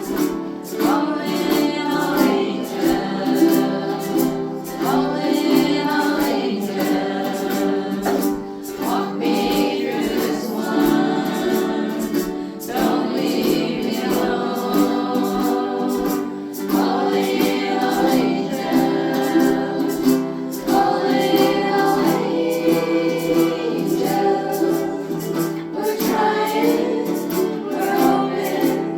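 A group of voices singing together to strummed ukuleles, a community sing-along.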